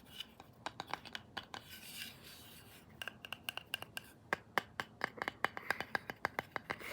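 Tapping and scratching on a wooden letter A: quick, irregular clicks, sparse at first, then coming faster and closer together from about halfway through.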